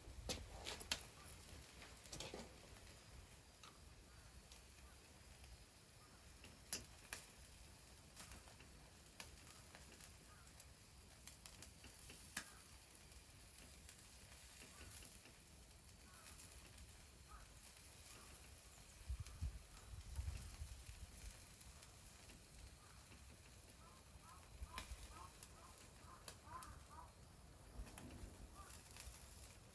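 Faint wood fire crackling, with scattered sharp pops and a few soft low knocks a little after the midpoint.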